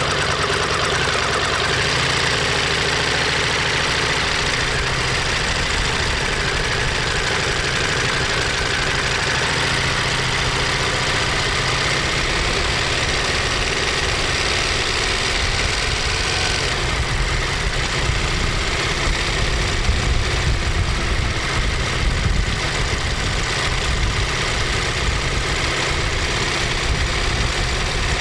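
Ducati Monster 1200S's 1198 cc L-twin engine and exhaust running steadily. About seventeen seconds in the higher hiss falls away and the low beat turns more uneven.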